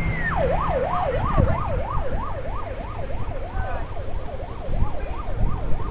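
Emergency vehicle siren in a fast yelp: a high held note drops at the start, then the pitch sweeps up and down about two to three times a second. A low rumble runs underneath.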